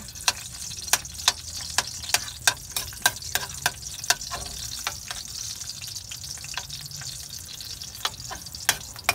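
Garlic cloves sizzling in hot oil in a metal wok while a metal ladle stirs them, clinking and scraping against the pan. The clinks come quickly, about two or three a second, for the first few seconds, then thin out under the steady sizzle and return a couple of times near the end.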